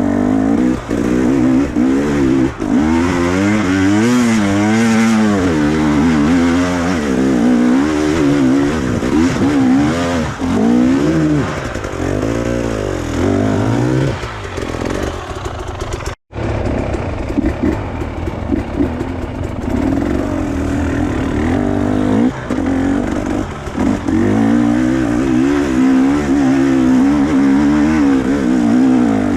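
Motorcycle engine revving up and down over and over, its pitch rising and falling quickly as the throttle is worked. The sound cuts out for an instant about sixteen seconds in, then carries on.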